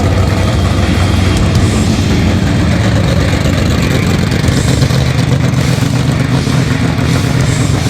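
A car engine running steadily, a loud low sound that holds even throughout.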